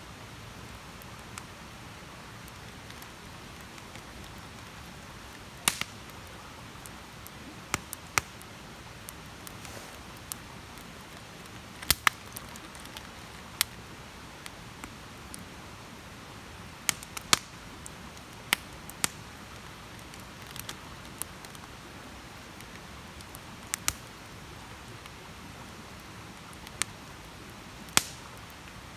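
Wood campfire burning: a steady soft hiss with sharp crackles and pops at irregular intervals, some of them in quick pairs.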